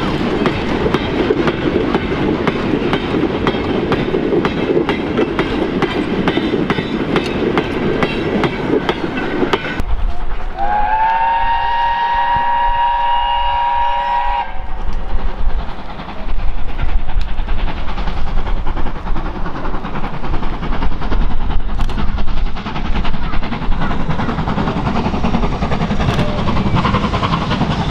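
Steam-hauled train running with a rhythmic clatter. About ten seconds in, a steam locomotive whistle sounds for about four seconds, then the loud running noise of the train returns.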